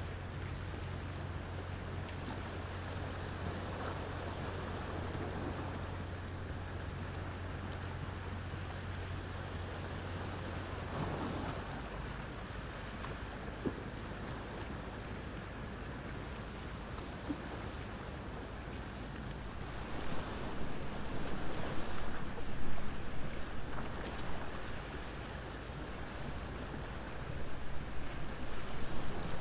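Sea waves washing onto the shore behind a crackling wood bonfire, with a couple of sharp pops from the fire. The surf swells louder in choppy rushes about two-thirds of the way in and again near the end.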